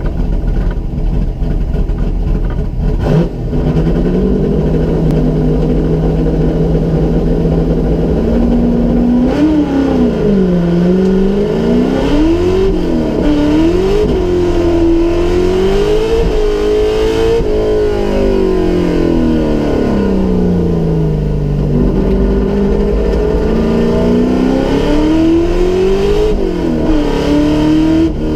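Holden 355 V8 of a Torana SL/R 5000 race car, heard from inside the cabin. It holds steady revs, launches about three seconds in, and then revs up and drops back again and again through gear changes and lifts for corners.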